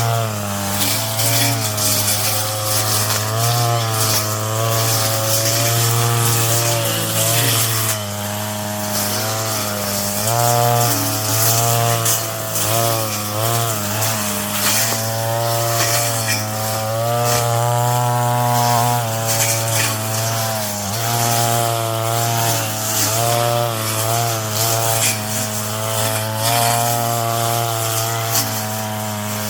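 Brush cutter engine running hard, its pitch dipping and recovering again and again as the cutting head bites into the weeds.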